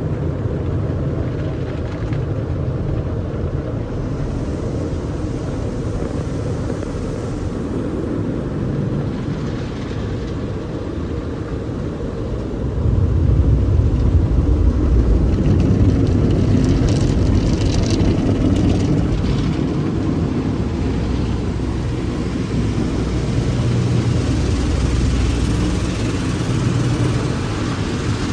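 Automatic car wash heard from inside the car's cabin: a steady low rumble and wash of noise that grows louder about halfway through, with a brief higher hiss a few seconds after that.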